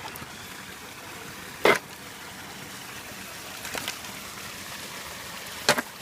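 Steady rush of running creek water, with two sharp knocks, one about two seconds in and one near the end.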